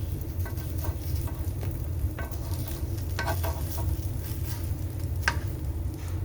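Egg-dipped bread frying in oil in a pan, sizzling with scattered crackles and pops, the sharpest about three and five seconds in, over a steady low rumble.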